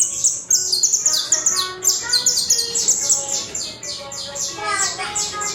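A Colombian canario criollo (saffron finch) singing loud and clear: a fast, unbroken run of sharp high notes, each one sliding down in pitch, several notes a second.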